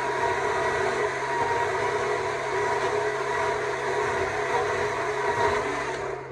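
Stihl MSA 200 C battery chainsaw running steadily while carving wood, its electric motor giving a steady whine over the chain noise, then easing off near the end.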